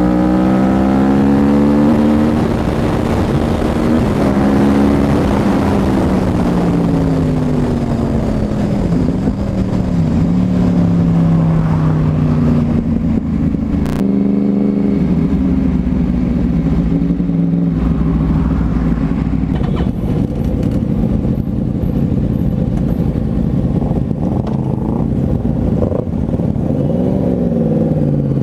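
2011 Yamaha R1's crossplane inline-four running through a Toce full-system exhaust, loud, revving up and dropping back again and again as the bike accelerates and shifts.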